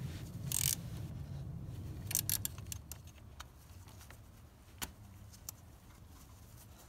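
Hand work fitting the mounting bolt and washer of a new engine position sensor: rustling and handling noise, a short scrape, a quick cluster of light metallic clicks a little after two seconds in, then a few scattered single clicks.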